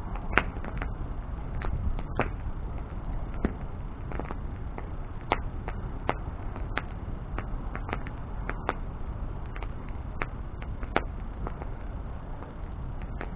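Wood bonfire crackling: irregular sharp pops and snaps, about ten of them loud, over a steady low rumble.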